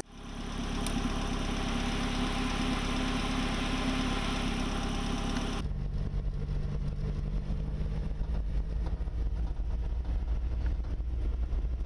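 An off-road car's engine running steadily under a constant hiss. About five and a half seconds in it changes abruptly to the lower, uneven engine drone and rumble heard inside the cabin while driving on a dirt road.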